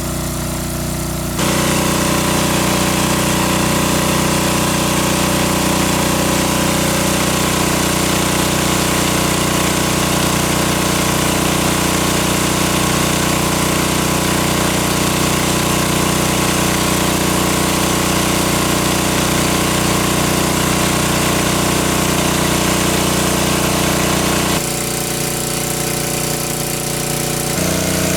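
A small engine running steadily, with its tone and level changing abruptly three times: louder about a second and a half in, softer near the end, then louder again.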